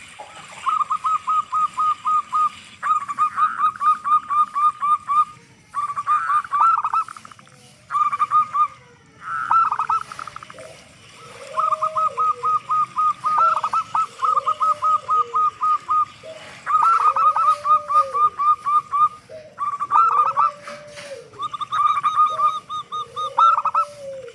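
Zebra doves (perkutut) calling: repeated runs of quick, clipped cooing notes, with a lower, rounded coo added from about ten seconds in that recurs about every two seconds.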